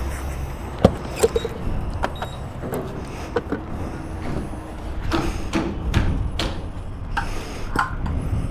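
Sharp clicks and knocks of a gas pump nozzle being handled at a motorcycle's fuel tank, over a steady low hum.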